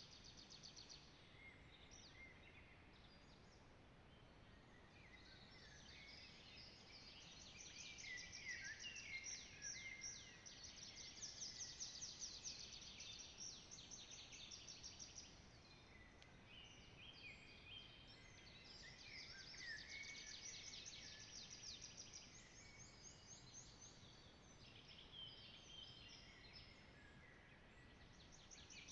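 Several songbirds singing at once, faint, with many overlapping high trills and quick chirping notes that swell busier twice during the stretch.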